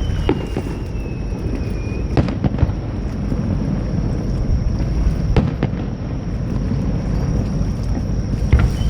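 Fireworks bursting: sharp bangs about two seconds in and again about five seconds in, with smaller cracks around them. They sound over a steady low rumble of wind and surf on the microphone. A thin whistle falls slowly in pitch during the first two seconds.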